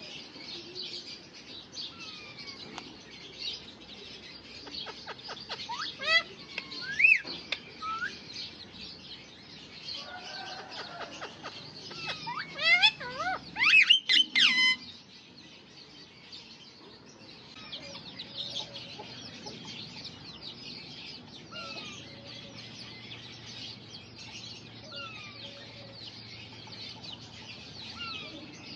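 Parrots chattering with constant high chirps, broken by louder squawking calls about six seconds in and again for a couple of seconds around twelve to fifteen seconds in.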